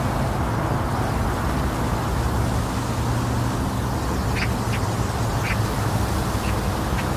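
Steady, deep womb-sound white noise, weighted toward the low end with a low hum underneath. A few faint short chirps come in the second half.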